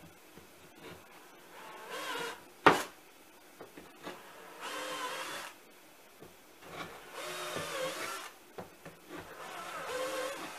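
Electric drill boring holes into wood in four short bursts, each bit cutting in with a wavering whine over the shavings' hiss. A single sharp knock, the loudest sound, comes just before the second burst.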